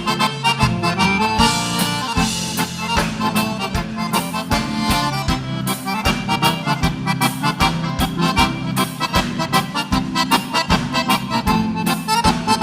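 Instrumental break of live gaúcho dance music: accordion carrying the melody over bass and a steady drum beat.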